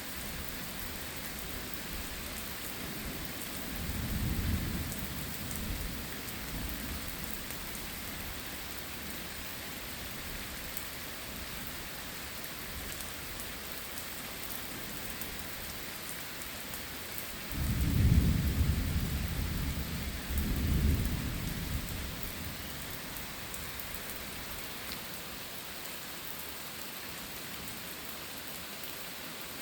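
Steady heavy rain with two rolls of thunder: a lighter rumble about four seconds in and a louder, longer rumble around eighteen seconds in.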